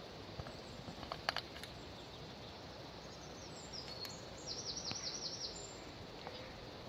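Outdoor ambience with a steady background hiss and a bird calling: a short high note, then a quick run of about six repeated high notes. There are a few faint clicks about a second in.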